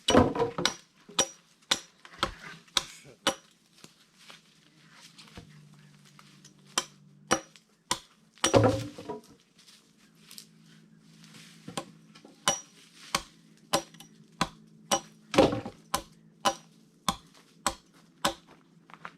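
Axe blows chopping into a log, a sharp strike about every half second, with a few heavier blows among them.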